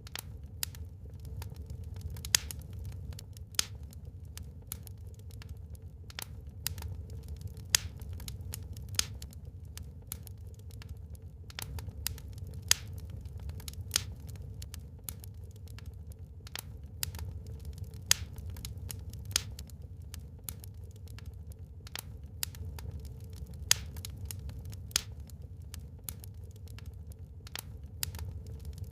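Wood fire burning in a fireplace, crackling with frequent irregular sharp pops, a few much louder than the rest, over a steady low rumble.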